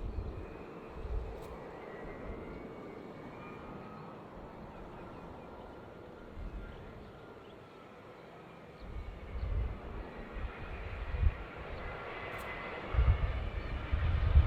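Jet airliner engines, growing louder toward the end as the aircraft comes closer, with irregular low rumbles underneath.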